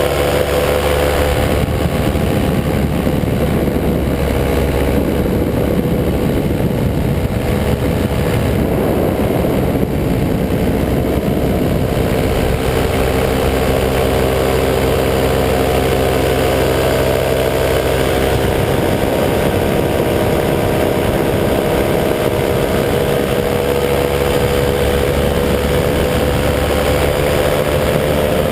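A 185 cc EcXtreme paramotor's two-stroke engine and propeller running steadily in flight, a continuous drone whose pitch sags slightly about a third of the way in and then holds.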